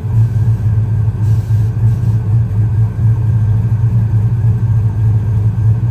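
Truck engine idling with a choppy, uneven lope: a low rumble that pulses rapidly in loudness.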